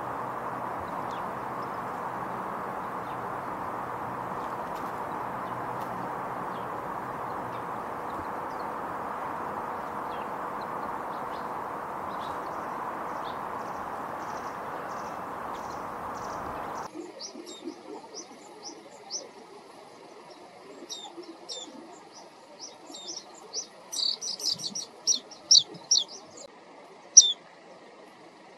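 A steady rushing background noise, with a few faint chirps over it, cuts off abruptly a little over half-way through. Then a small songbird gives short, high chirps, scattered at first and coming in quick runs near the end.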